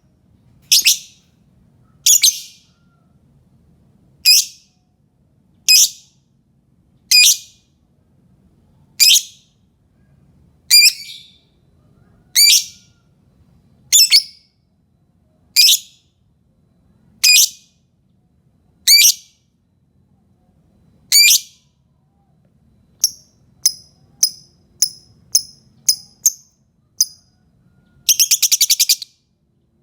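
Lovebird giving sharp, high-pitched single calls about every one and a half seconds. Near the end come a quicker run of short chirps and then a brief, fast trill.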